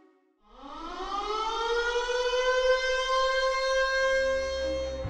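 Civil defence air-raid siren winding up: it rises in pitch over about two seconds and then holds a steady wail.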